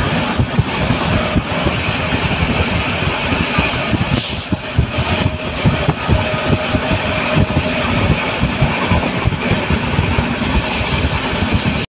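Passenger train running at speed, heard from inside a carriage at the window: a steady loud rumble of wheels on the rails, with a brief hiss about four seconds in.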